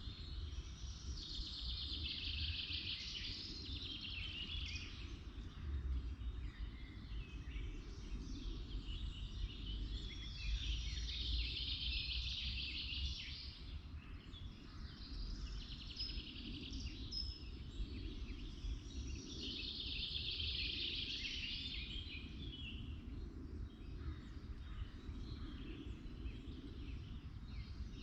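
Songbirds singing in woodland: a bird repeats a rapid, trilled, high song phrase of two to four seconds every several seconds, with other birds chirping in between, over a steady low rumble.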